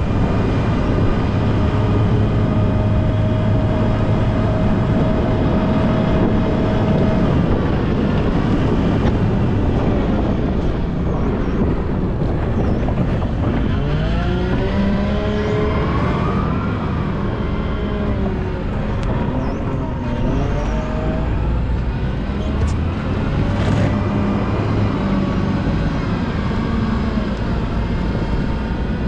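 Volvo L90H wheel loader's diesel engine running under load, with its pitch rising and falling several times through the middle as it revs up and down.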